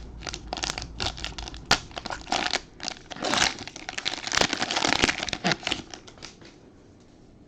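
Plastic wrapper of a trading card pack crinkling and crackling as it is torn open and handled, loudest in the middle and stopping about six seconds in.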